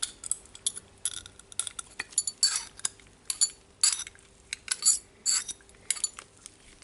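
Irregular metal clicks and clinks, some with a short bright ring, and brief scrapes, as a steel spring ring is pushed down into its groove inside a DeWalt D25003 rotary hammer's mechanism.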